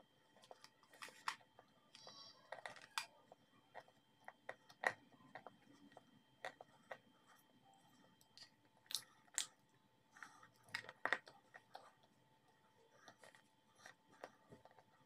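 Close-up crunching as crumbly white chalk-like blocks are bitten and chewed: a string of irregular, sharp crunches and crackles, a few noticeably louder than the rest.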